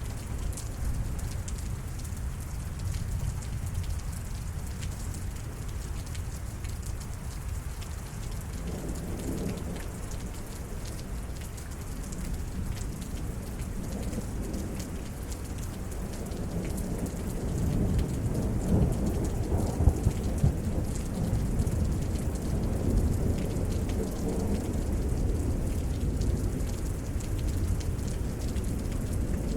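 Steady rain falling, with thunder rolling underneath. The rumble builds gradually and is loudest a little past halfway through, then stays heavy to the end.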